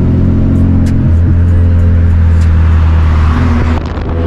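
A car engine running steadily close by, its low hum holding an even pitch with slight shifts about a second in and near the end.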